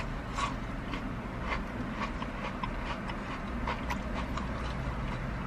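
Chewing on crunchy cinnamon-sugar mini churros: a few faint, short crackles spaced irregularly, over a low steady hum inside a car.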